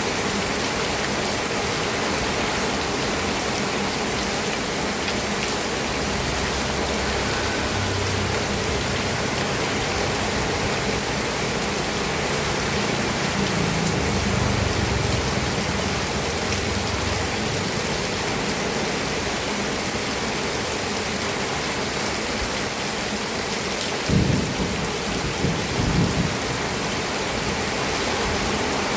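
Steady heavy rain falling, an even hiss. Low rumbling swells through the middle, and two sharper low thuds come a few seconds before the end.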